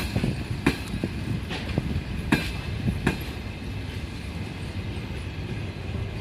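Passenger train rolling slowly, its wheels knocking over rail joints and points a few times in the first three seconds, over a steady low rumble.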